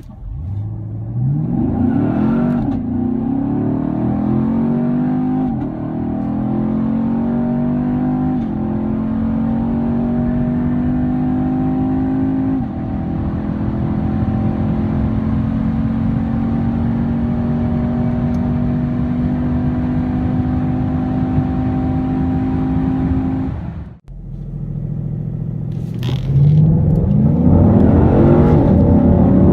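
V8 muscle car accelerating at full throttle through the gears. The engine note climbs and drops back at each upshift, four times in the first dozen seconds, then holds a steady pitch at high speed. It cuts off suddenly, and another full-throttle run begins, with the engine note climbing again.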